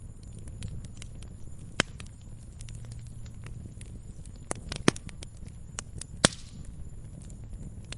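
Wood fire crackling in a fireplace: a low, steady rumble of burning with scattered sharp pops and snaps, the loudest about two, five and six seconds in.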